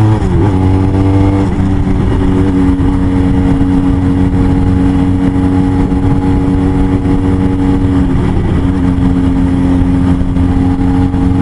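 Motorcycle engine running on the move. Its note drops sharply just after the start, then holds steady, with a brief dip about eight seconds in.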